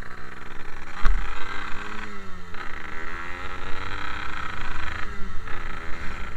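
Yamaha RX-King's two-stroke single-cylinder engine pulling while riding, its pitch climbing and dropping back at two gear changes, about two and five seconds in. A sharp thump about a second in.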